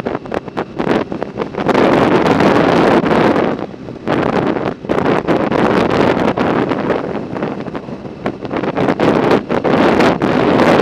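Wind buffeting the microphone, loud and uneven, rising and falling in gusts with a few brief lulls.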